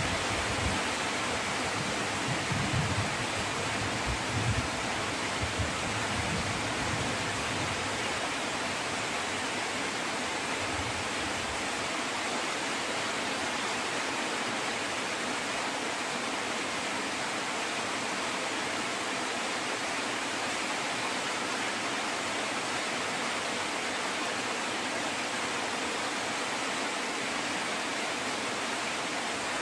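Steady rain falling, an even hiss, with low thunder rumbles fading away over the first several seconds.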